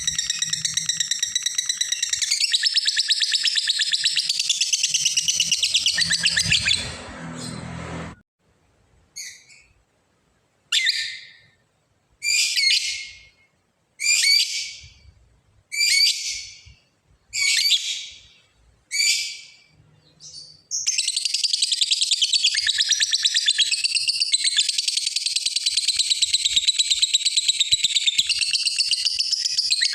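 Lovebird giving its long 'ngekek' chatter, a fast rattling trill held for several seconds. The trill breaks off into a string of short separate calls about one every second and a half, then resumes as a long trill near the end. This long ngekek is the call a lovebird uses to challenge a rival.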